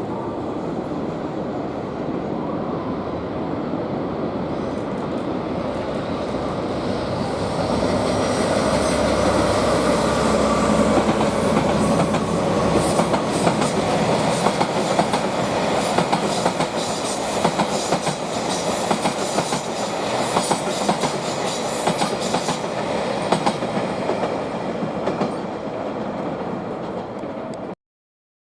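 A locomotive-hauled train of unpowered KiHa 261 series diesel railcars rolling past, steel wheels clicking over rail joints with a steady rumble. The clicking grows louder and denser from about eight seconds in, with a faint high wheel squeal, and the sound cuts off abruptly near the end.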